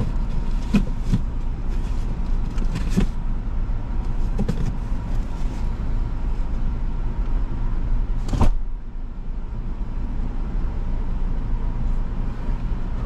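Idling car engine heard from inside the cabin: a steady low rumble. A few light knocks sound in the first few seconds, and a sharper thump comes about eight seconds in.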